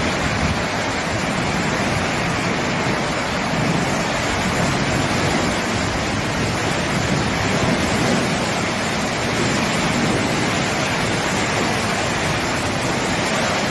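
Steady, loud rush of a heavy rainstorm with wind, an even noise that does not let up.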